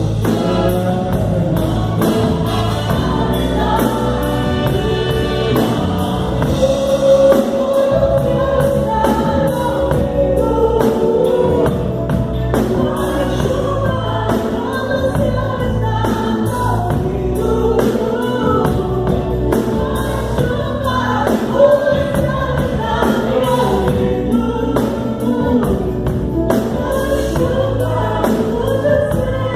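A song with several voices singing together over band accompaniment and a steady drum beat.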